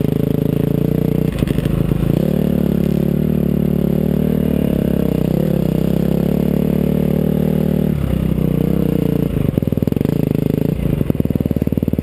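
KTM 350 SX-F's single-cylinder four-stroke engine ridden hard on a motocross track, holding a steady high note for several seconds. The throttle changes about a second and a half in and again about eight seconds in, and near the end the engine drops to a low, choppy off-throttle beat.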